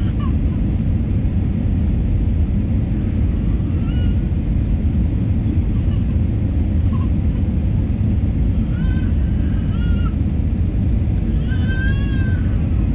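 Steady low roar of an airliner cabin in flight on approach, from the engines and the airflow. A few short high-pitched cries come through over it, the longest near the end.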